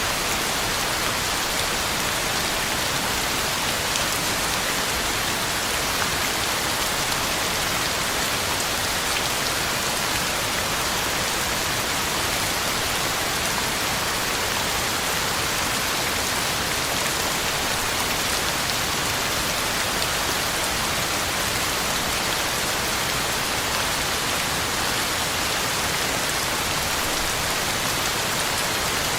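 Heavy rain falling steadily, a dense even hiss with scattered drop patter on the ground and leaves.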